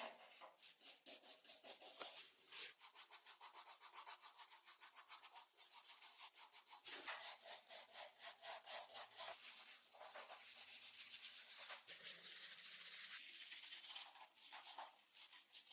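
Quick back-and-forth rubbing strokes, about five a second, of a hand brush or abrasive scrubbing a rust-encrusted metal surface, with a few short pauses.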